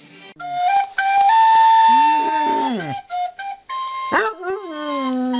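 A dog howling: a long held note, then howls that jump up sharply and slide slowly down in pitch.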